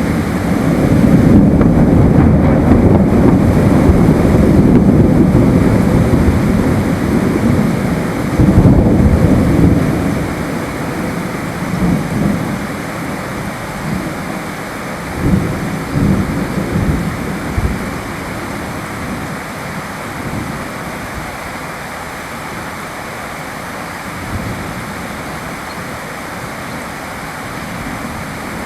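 Rolling thunder over steady rain. A long low rumble fills the first ten seconds or so and peaks near nine seconds; a few shorter rumbles follow in the middle, then the rain hiss carries on alone.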